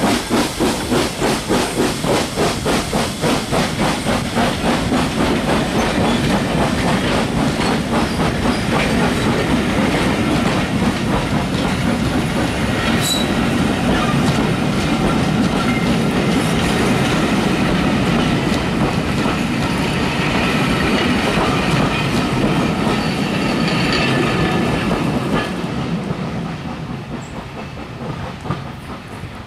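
Coaches of a steam-hauled passenger train rolling past close by, wheels clattering steadily over the rails, with a fast regular pulsing at first. The sound fades away over the last few seconds as the train goes.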